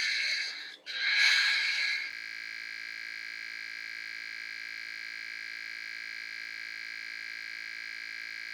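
A cockatiel's hoarse, wheezing, pig-like call, two runs broken by a short gap, ends about two seconds in. It is followed by a steady, unchanging electronic tone that holds to the end.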